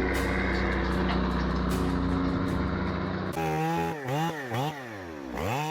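A heavy truck's diesel engine running steadily. About three seconds in it cuts abruptly to a small two-stroke chainsaw engine being revved up and down several times in quick blips.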